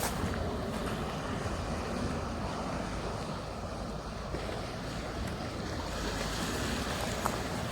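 Sea surf washing onto the shore in a steady rush, with wind buffeting the phone's microphone.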